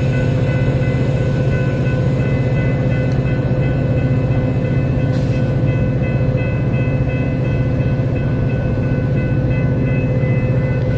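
Metra commuter train running past at speed: a steady, loud diesel drone with several held tones over it, and a short hiss or clatter about five seconds in.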